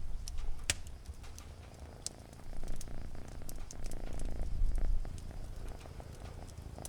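A cat purring close up, a low rumble that swells and eases every second or two, with scattered faint crackles of a fire.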